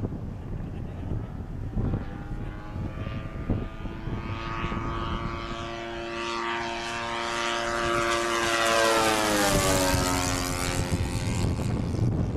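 RC pylon racer with a supercharged YS 110 four-stroke glow engine and a two-blade prop flying past at speed: the engine note builds for several seconds, drops in pitch as the plane passes about ten seconds in, then fades. Wind rumbles on the microphone throughout.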